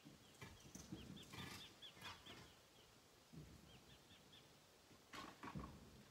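A small bird calling in two runs of short, high chirps, several a second, with a few faint knocks near the end.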